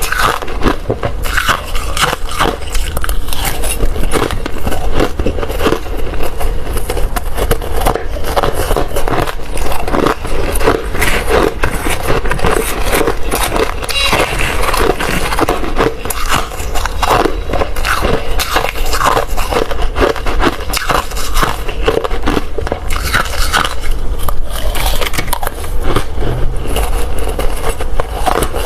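Hard ice being bitten and chewed, a dense run of loud, irregular crunches and crackles.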